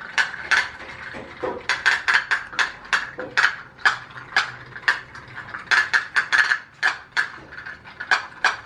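Homemade tin pop-pop boat engines running, their metal diaphragms tapping out sharp, uneven clicks, several a second.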